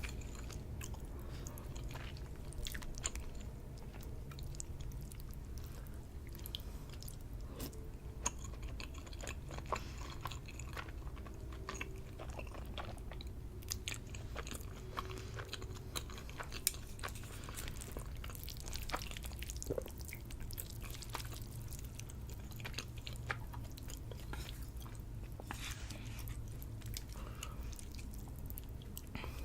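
Close-up mouth sounds of someone eating Samyang instant noodles: chewing with many small, irregular wet clicks. A steady low hum runs underneath.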